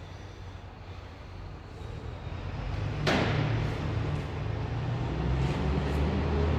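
A train approaching through the station, its low rumble building steadily louder, with one sharp clack about three seconds in and a few fainter clicks after.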